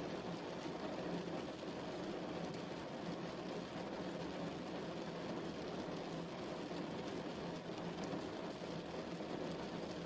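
Steady rain falling, a dense even patter with fine drop ticks over a deeper wash.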